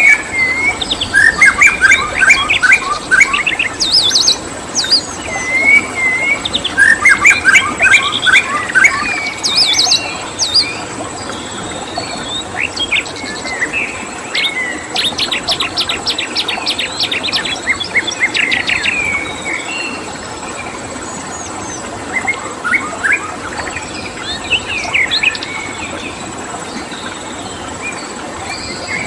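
Several songbirds chirping and singing in quick, varied trills and whistles, busiest in the first two-thirds and thinning out near the end. A steady thin high tone and a constant hiss run underneath.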